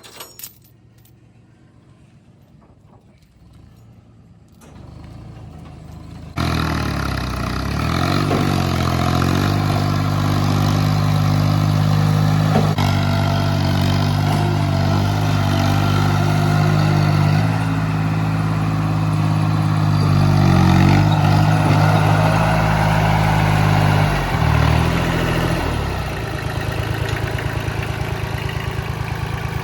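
Tractor diesel engine running hard, its pitch rising and dipping as it is revved. It comes in suddenly about six seconds in, after a few quiet seconds.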